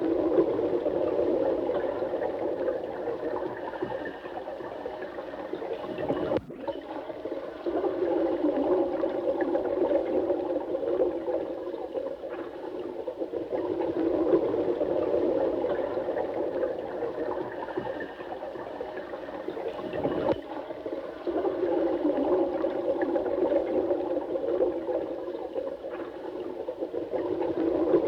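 Running water, a steady flow with most of its sound low in pitch, swelling and easing every few seconds. There is a momentary break about six and a half seconds in.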